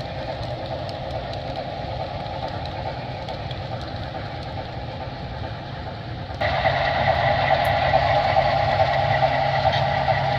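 Model steam train running on the layout track, a steady motor hum and wheel rumble. It gets suddenly louder about six seconds in.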